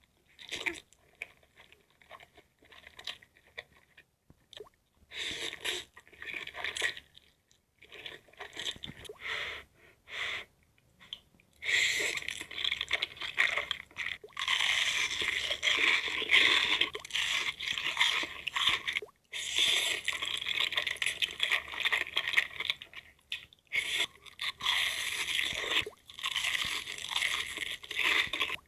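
Close-miked eating: a person biting and chewing crunchy food. Scattered crunches at first, then from about twelve seconds in, loud, near-continuous crunching with a few brief pauses.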